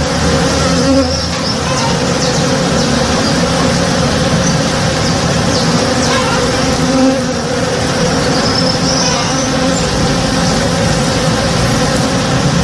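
Many honey bees buzzing as they forage in a flowering tree: a steady, dense hum over a low rumble. Single bees pass close and swell louder about a second in and again about seven seconds in.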